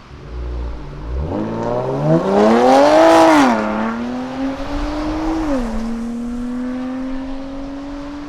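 BMW S55 twin-turbo inline-six with resonated catless downpipes and an equal-length midpipe, accelerating hard past the listener. The engine note climbs steeply to its loudest about three seconds in and falls away as the car passes, then upshifts once more and keeps pulling as it drives off.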